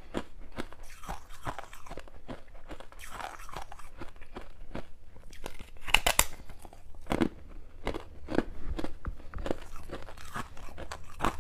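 Close-miked crunching of freezer frost being bitten and chewed, a run of sharp crackling crunches with a loud bite about six seconds in.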